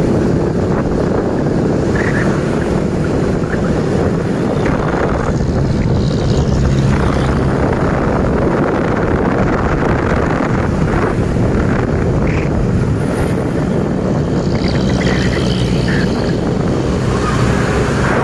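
Truck engines running in a convoy: a steady low rumble, with wind buffeting the microphone.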